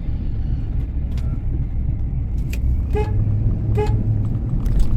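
Two short car-horn toots, just under a second apart, over a steady low rumble.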